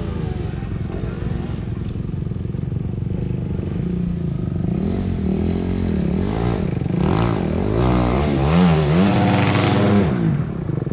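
Motorcycle engine running, its revs rising and falling again and again. The engine gets louder from about halfway, with quick throttle blips, and then drops back just before the end.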